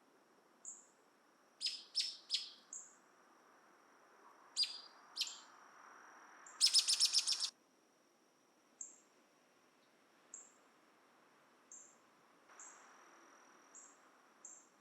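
Small birds chirping: a few clusters of sharp high chirps in the first half, a fast trill about six and a half seconds in lasting about a second, then single short high chips about once a second. A steady thin high tone runs underneath.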